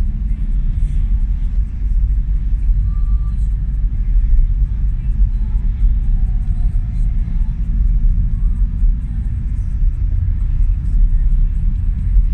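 Steady low rumble of truck engines in a highway traffic jam.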